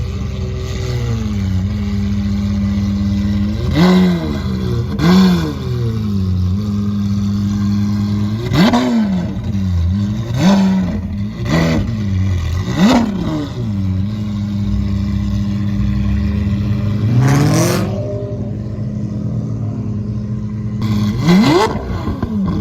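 Lamborghini Aventador V12 engines idling steadily, blipped in quick free revs again and again, each rev flaring up and dropping straight back to idle, about nine times.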